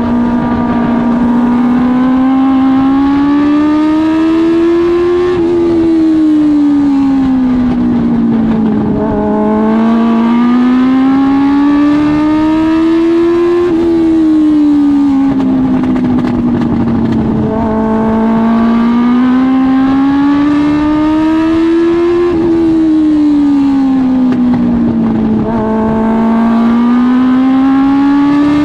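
Dwarf car's Suzuki GSX-R1000 inline-four motorcycle engine at racing speed. Its pitch climbs steadily for about four seconds, drops sharply when the driver lifts off, then climbs again. This rise-and-fall pattern repeats regularly, accelerating down each straight and easing off for each turn.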